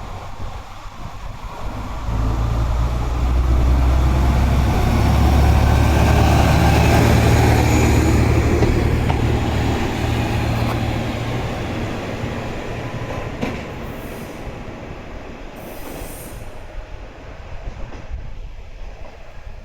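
Heisei Chikuho Railway Type 400 single-car diesel railcar pulling out, its engine coming up under power about two seconds in. It grows loud over the next few seconds, then fades away as the railcar leaves.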